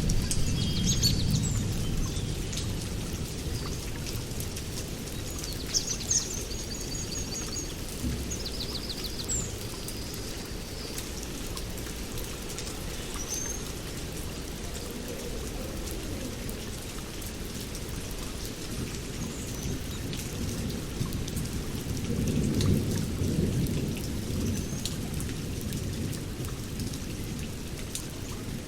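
Steady rain with rolling thunder, which rumbles at the start and again about two-thirds of the way through. Birds chirp in short trills, mostly in the first third.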